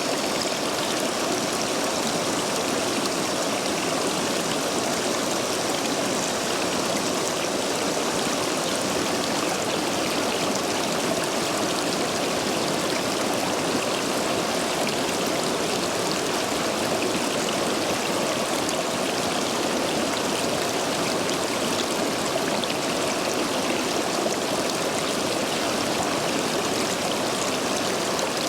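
Stream water rushing steadily over and between stepping stones, running high after heavy rain.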